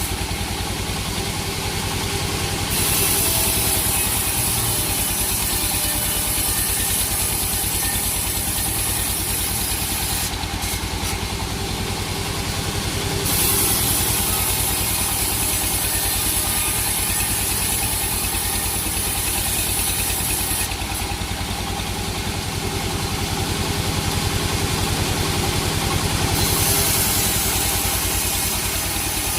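Sawmill machinery with an engine drone running steadily throughout. A higher hiss comes and goes in stretches of several seconds, typical of the saw blade going into and out of the wood.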